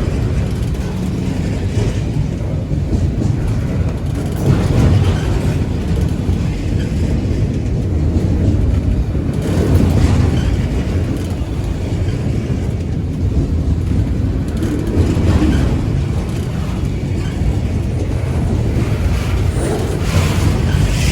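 Freight train of auto-rack cars rolling past, steel wheels rumbling on the rails, swelling and easing every five seconds or so.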